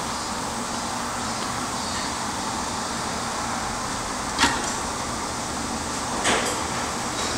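Silicone caulking gun being worked to seal a narrow gap in insulation, heard as two short sharp clicks about two seconds apart over a steady background noise.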